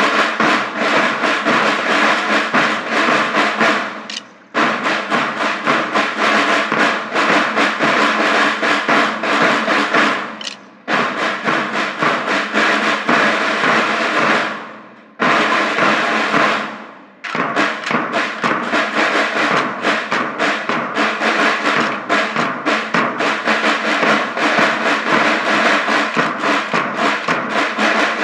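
School band drums playing fast snare-drum patterns and rolls. The sound dies away in a few short pauses and comes back in sharply each time.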